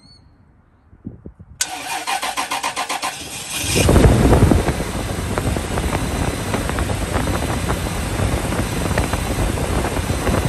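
Car starter cranking the engine for about two seconds on a weak battery boosted by a portable jump starter, then the engine catches with a loud rise and settles into a steady idle.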